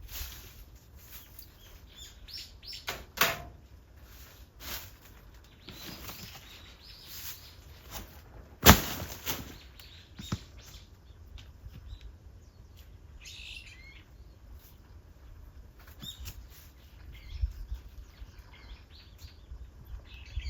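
Birds chirping now and then, with scattered clicks and knocks and one sharp, loud knock about nine seconds in.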